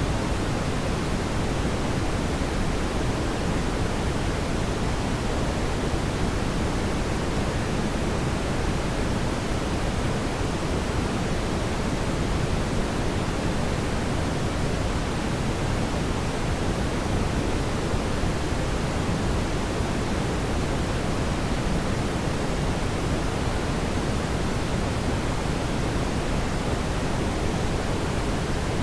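Fireplace fire giving a steady, even rushing noise, heaviest in the low end, with no separate crackles or pops standing out.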